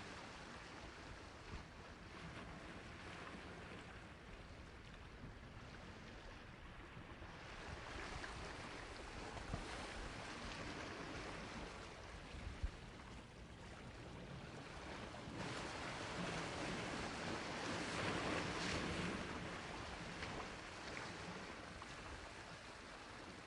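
Sea waves washing onto the shore: a steady hiss of surf that swells with a smaller wave about a third of the way in and a larger one past the middle, then ebbs. Two brief low thumps come between the two swells.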